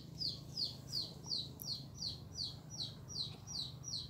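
A bird calling: a short, high, falling note repeated evenly about three times a second.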